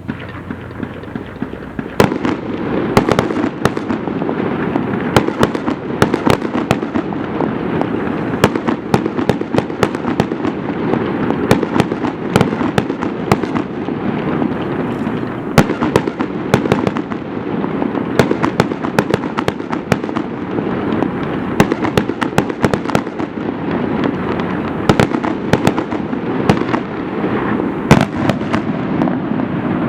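Fireworks display in a dense barrage: a rapid string of sharp shell bursts and crackles over a continuous rumble, starting about two seconds in.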